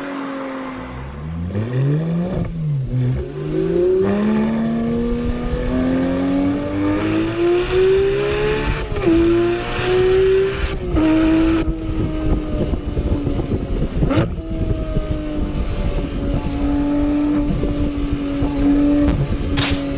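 Sports car engine accelerating hard through the gears: the pitch climbs, then drops sharply at each upshift, three times in the middle, before settling into a steady high-speed run.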